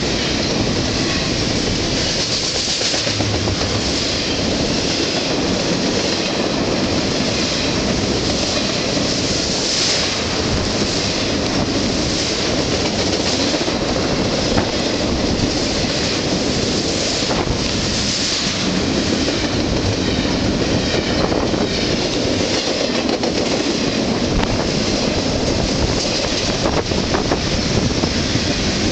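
Canadian Pacific freight train's cars rolling past close by: a loud, steady rumble with wheels clacking over the rail joints.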